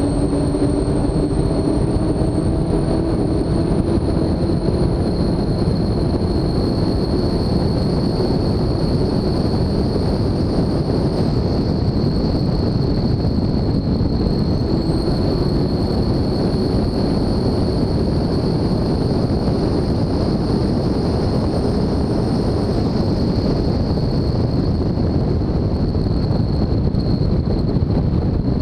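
Engines of a 44-foot MTI offshore race boat running steadily at speed: a loud, unbroken drone with a constant high whine above it.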